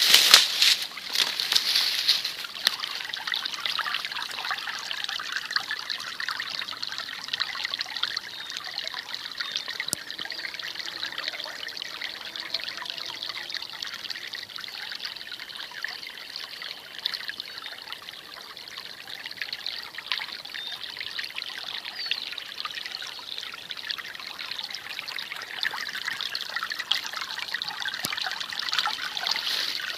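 Small springtime brook trickling and babbling steadily, a little louder in the first couple of seconds.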